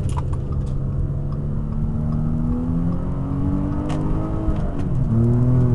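Audi A5's 3.2-litre V6 with a Milltek catback exhaust, heard from inside the cabin with the windows up, accelerating onto a highway. The exhaust note climbs slowly in pitch for about four seconds, then drops sharply near the end, as at an upshift, and picks up again.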